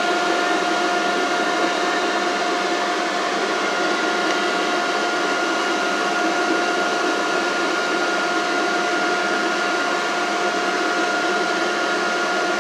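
Inside a moving CTA Brown Line rail car: a steady running rumble from the wheels and running gear, with a constant two-note whine over it.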